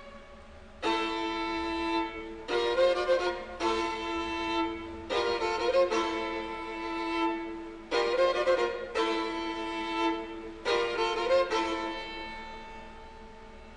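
Orchestral classical music with a prominent violin. A series of loud, sharply entering chords and phrases comes between quieter passages at the start and near the end.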